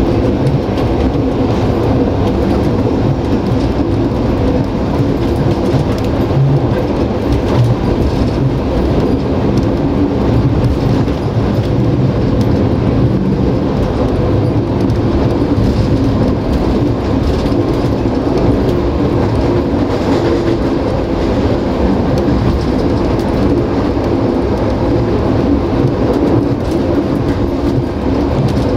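Passenger train coach running along the track, heard from inside: a steady rumble of wheels on rails with a constant hum.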